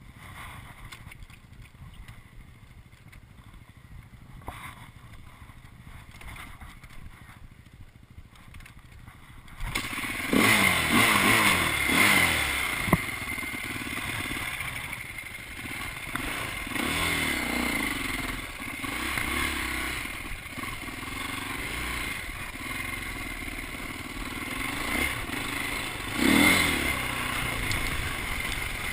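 Dirt bike engine running and revving, its pitch rising and falling repeatedly. It comes in suddenly about a third of the way in, after a quieter stretch.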